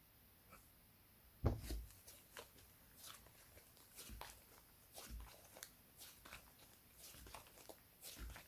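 Hands squishing and stretching slime, giving scattered soft clicks and pops, one louder pop about one and a half seconds in.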